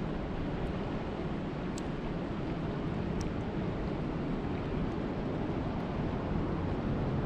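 Steady rain, an even rushing noise heaviest in the low range, with a few faint ticks scattered through it.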